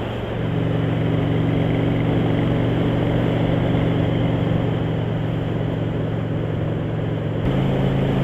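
Motorcycle engine running steadily at road speed, with wind and road noise; the engine note rises about half a second in and changes again near the end.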